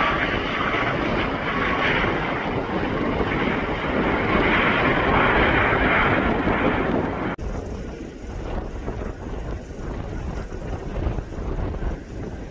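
Aircraft engine noise mixed with wind buffeting the microphone. It cuts off abruptly about seven seconds in, leaving a quieter low wind rumble.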